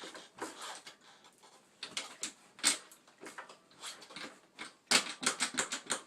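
Handling noise: irregular sharp clicks, taps and scraping rustles, with a quick run of clicks about five seconds in.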